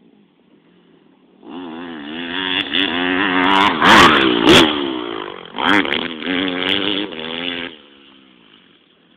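Motocross bike engine revving hard as it passes close by, its pitch rising and falling with the throttle and gear changes. It comes in suddenly about a second and a half in, is loudest around the middle, and drops away to a faint distant engine near the end.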